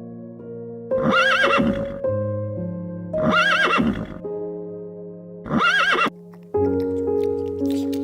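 Horse whinnying three times, a quavering call of about a second each, repeated alike roughly every two and a half seconds, over background music.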